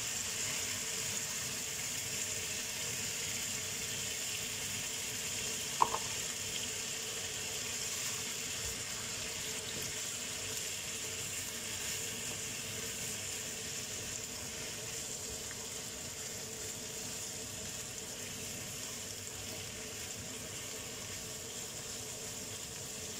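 Chicken, potatoes and carrots frying in a pan with soy sauce just poured in, sizzling steadily and slowly fading. A single sharp clink about six seconds in.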